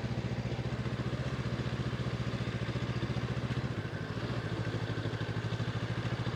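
Honda CB500X parallel-twin motorcycle engine running steadily at low revs, with a brief dip in its note about four seconds in.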